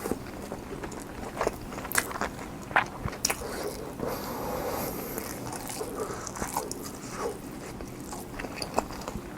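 Close-up chewing of cheese and egg kimchi fried rice, with a spoon scraping and clicking against the dish several times.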